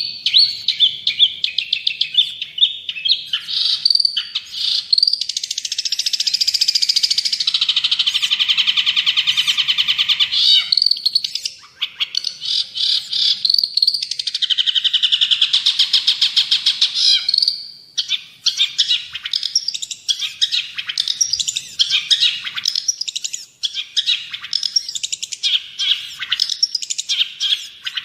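Long-tailed shrike (cendet) singing a loud, fast, varied chattering song. A long rapid buzzy trill runs from about five to ten seconds in and another comes around the middle, then the song breaks into choppy, scratchy phrases.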